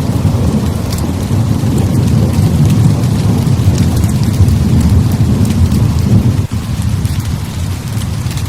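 Heavy rain falling steadily over a continuous low rumble of thunder, with faint scattered ticks of drops.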